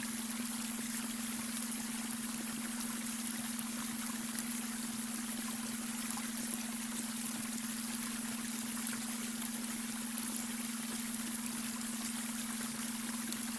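Babbling brook: water running and trickling in a steady, even rush. A steady low tone sits under it throughout: the beta-wave brainwave tone blended into the soundscape.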